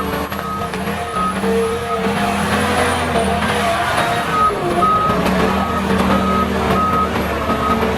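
Heavy machine's engine running with a reversing alarm beeping steadily, about one beep every two-thirds of a second, pausing briefly midway.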